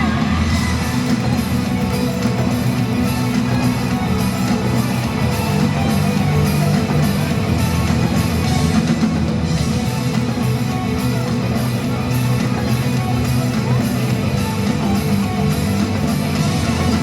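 Live rock band playing an instrumental passage over a loud sound system, with distorted electric guitar over bass and a drum kit.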